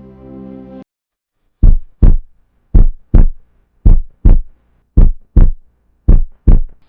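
Loud heartbeat sound effect: five double thumps (lub-dub), roughly one pair a second, deep and low. It follows a synth music bed that cuts off about a second in.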